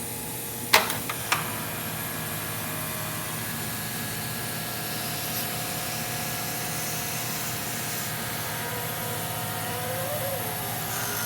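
Seamtek 36 rotary hot air welder running as material feeds through it: a steady hiss of the hot air blower with a motor hum underneath. Two sharp clicks about a second in as the machine starts.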